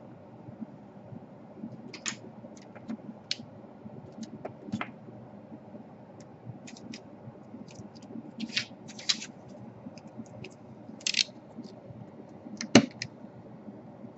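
Small plastic wings on a laptop DC power jack being cut off by hand: irregular snips, clicks and scrapes, with one sharper click near the end.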